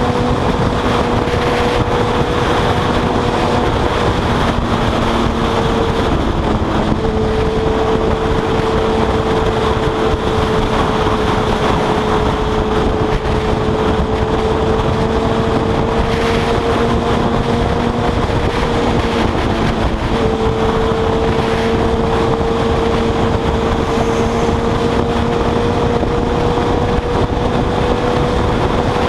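Suzuki GSX-R1000 inline-four engine running at a steady cruising speed on the highway, its note holding mostly even and breaking briefly twice. Heavy wind noise rushes over the microphone.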